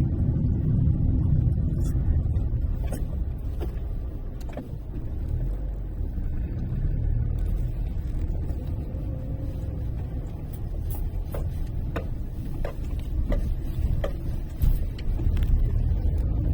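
Road noise inside a moving car's cabin: a steady low rumble from the engine and tyres on the road, with scattered light clicks and knocks.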